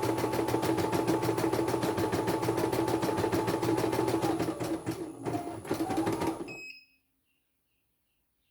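Computerized embroidery machine stitching with a rapid, even needle rhythm over its motor hum. It falters and then stops about two-thirds of the way through, with a short beep.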